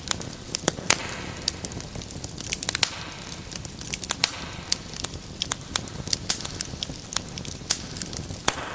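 Wood fire crackling steadily, with frequent sharp irregular pops over a low bed of fire noise.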